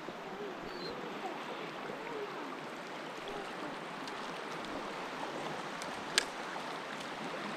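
Steady rush of flowing creek water, with one sharp click about six seconds in.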